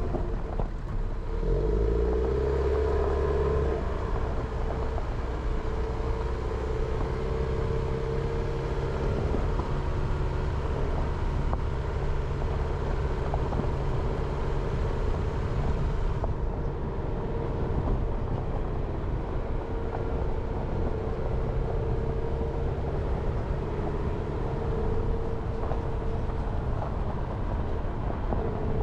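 Jeep Renegade driving along, with steady engine and tyre noise and a low rumble. The engine note swells louder for a couple of seconds near the start.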